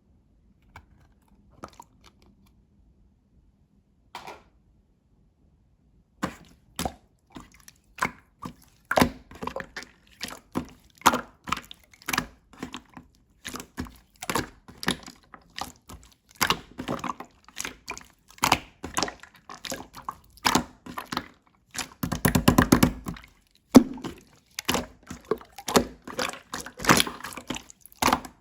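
Slime being squished and pressed by hand, making repeated sticky clicks and pops, a few per second, starting about six seconds in, with a dense run of crackling about two-thirds of the way through.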